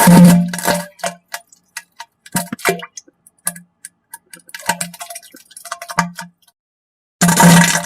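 Fart and diarrhea sound effects: a string of short, wet, sputtering bursts with a buzzing pitch, broken by small clicks and pops. The loudest bursts come at the start and again near the end.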